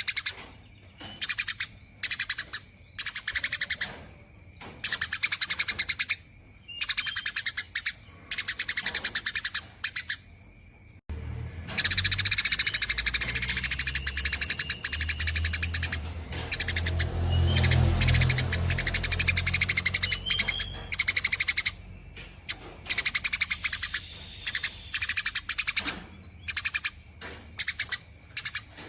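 Eurasian tree sparrow chattering in long, rapid bursts, each a second or two long with short pauses between. A low rumble runs under the chatter through the middle stretch.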